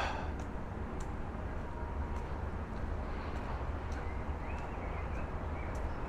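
Footsteps of a hiker walking uphill on a path or stairs, faint steps about once a second, over a steady low rumble.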